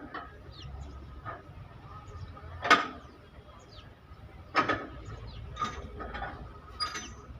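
Four irregular sharp knocks, typical of a hammer on a truck's sheet-metal body, the loudest about three seconds in. Birds chirp in the background.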